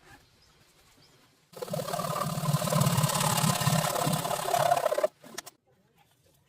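A small motorised tool runs for about three and a half seconds, starting and stopping abruptly, with a fast buzzing rattle.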